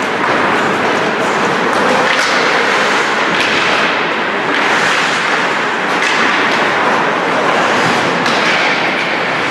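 Ice hockey play on the rink: a continuous scraping hiss of skates on the ice, with a sharp knock or scrape about every second from skate strokes, sticks and puck.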